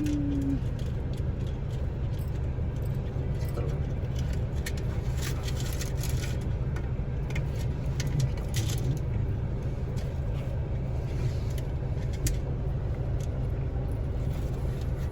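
Road vehicle on the move: a steady low engine and road rumble, with a brief pitched tone right at the start.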